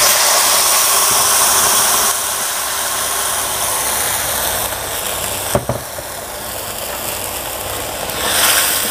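Wet blended chili spice paste hitting hot oil in a stainless steel wok and sizzling hard, starting suddenly and easing a little after about two seconds as the paste begins to fry. A single knock about halfway through.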